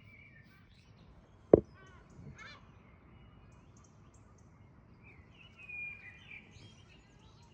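Birds chirping and calling over a quiet outdoor background, with a louder call near six seconds. A single sharp knock comes about a second and a half in.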